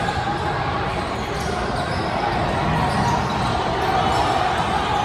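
Indoor ball game in a gym: a ball striking the court again and again over a steady mix of voices from players and onlookers.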